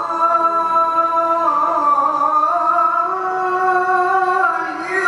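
Melodic Qur'an recitation (tilawah): a single voice holds one long ornamented note, its pitch turning slowly up and down without a break.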